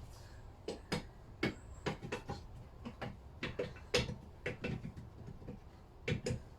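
A string of irregular light metal clicks and knocks, about a dozen, as a Lister D engine's crankshaft is turned and eased into its bearings in the crankcase.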